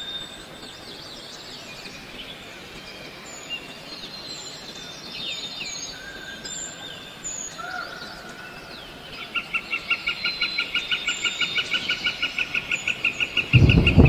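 Birds chirping and calling, with a fast repeated call of about six notes a second starting about nine seconds in. A loud low rumble comes in just before the end.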